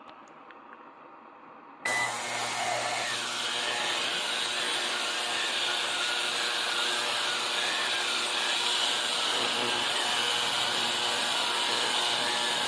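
Ultrasonic parts cleaner switched on about two seconds in, then running with a steady loud hiss and hum while it cleans carburetor parts.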